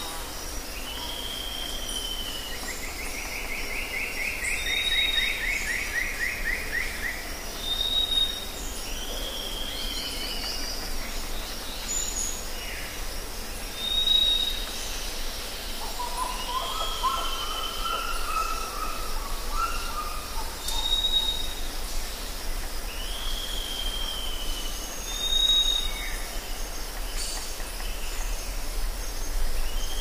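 Several birds calling in turn. A short high whistle repeats every three or four seconds among slurred, falling chirps, with a buzzy trill a few seconds in and a lower warbling call about halfway through.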